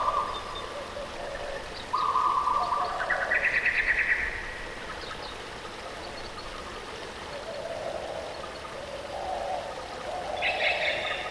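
Steady rush of a waterfall with wild birds calling over it. About two seconds in comes a held whistle, followed at once by a quick trilled call. Softer, lower calls follow later, and a higher call comes near the end.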